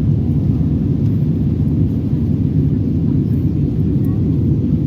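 Airliner cabin noise: a steady, unbroken low rumble of jet engines and airflow heard from inside the passenger cabin.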